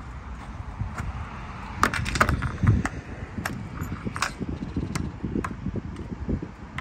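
Keys jangling with scattered sharp metallic clicks, over irregular low thuds.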